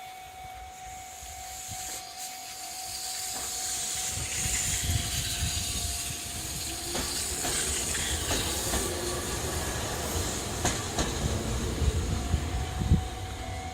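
Ohmi Railway electric train of the 100 series pulling away from a station: a hiss and rumble build over the first few seconds, followed by sharp clicks as the wheels run over the rail joints.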